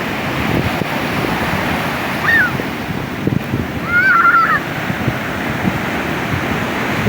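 Ocean surf washing steadily, with wind buffeting the microphone. Two short high-pitched cries rise above it, one about two seconds in and a longer, wavering one a little after four seconds.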